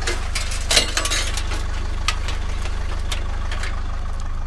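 A vehicle engine idling with a steady low rumble, under scattered clinks and rattles of scrap computer parts being handled. The loudest rattle comes about a second in.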